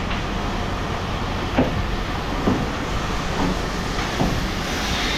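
Steady low rumble of running machinery, with four short knocks about a second apart.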